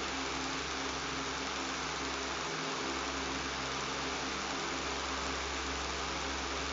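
Electric fan running with a steady motor buzz and hum under an even rush of air noise, unchanging throughout.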